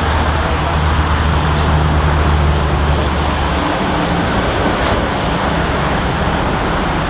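Boeing 777F freighter's jet engines giving a loud, steady rush of noise. A low steady hum under the noise drops away a little over halfway through.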